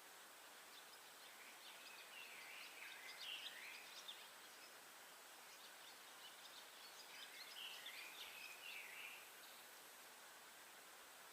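Faint songbird song: two short phrases of quick chirps, about two seconds in and again around seven seconds in, over a steady quiet hiss of forest air.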